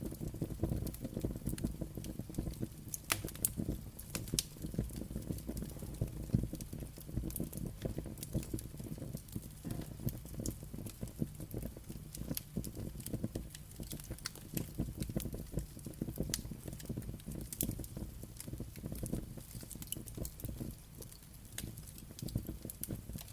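Wood fire burning, with a low steady rumble of flame and many sharp, irregular crackles and pops.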